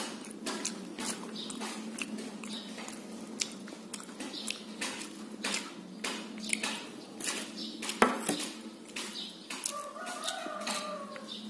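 Close-up eating sounds of rice and curry eaten by hand: repeated wet chewing clicks and lip smacks, with one louder click about eight seconds in. A brief wavering animal call sounds in the background near the end.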